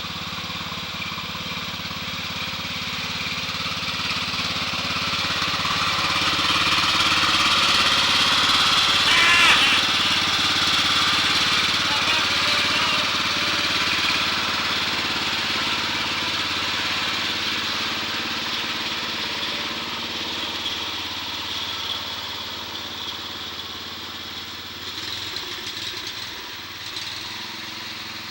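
Riding mower's Briggs & Stratton 14 hp engine running steadily. It grows louder to a peak about nine seconds in, then gradually fades.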